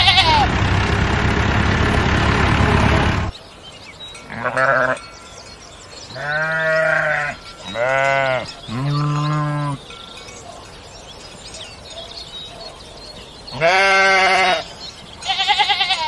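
Sheep bleating, six separate wavering calls, the longer ones lasting about a second, spaced out with quiet gaps between them. Before the bleats, a loud, rough buzzing sound fills the first three seconds and cuts off suddenly.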